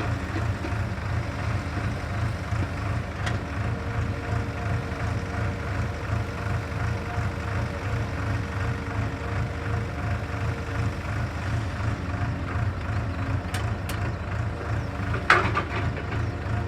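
JCB excavator's diesel engine running steadily with an even low pulse, a steady tone over it through the middle few seconds, and one sharp clank near the end.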